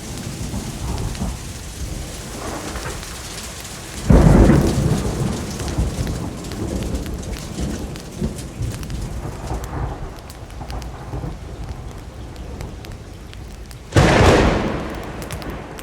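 Steady rain falling, with two sudden thunderclaps, one about four seconds in and one near the end. Each rumbles away over a couple of seconds.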